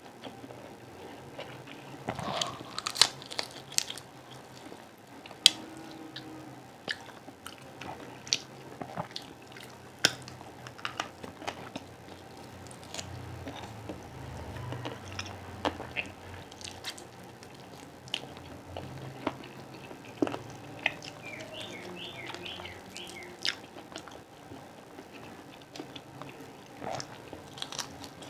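Close-up eating sounds: a person biting and chewing, with irregular sharp clicks and smacks of the mouth and food.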